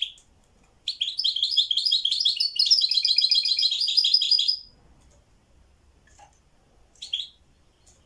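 A songbird singing a fast, continuous song phrase of rapid repeated high notes lasting about three and a half seconds, with a short call at the start and another near the end.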